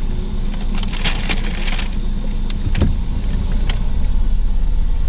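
Car engine idling inside the cabin, with a paper food bag crinkling and rustling in a few short bursts, most of them in the first two seconds.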